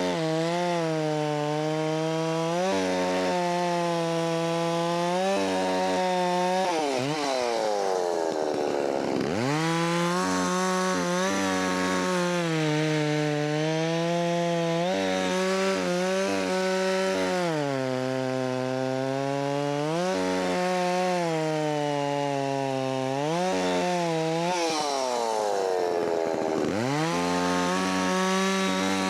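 Holzfforma 660 clone chainsaw, a big two-stroke saw, running at high revs and cutting wood. Its pitch sags each time the chain loads in the cut and picks up again. Twice the throttle is let off, the revs fall to a low drone, and the saw revs back up to carry on cutting.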